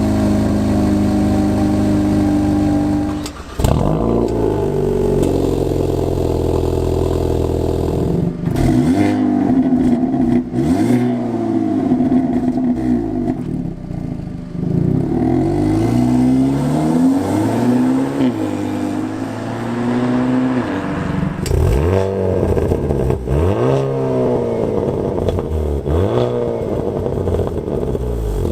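2022 Hyundai Elantra N's turbocharged 2.0-litre four-cylinder sounding through a STILLEN stainless cat-back exhaust, held at steady revs for about three seconds, then revved up and down over and over.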